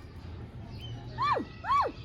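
Ringneck parakeet giving two short calls about a second in, half a second apart, each rising then falling in pitch.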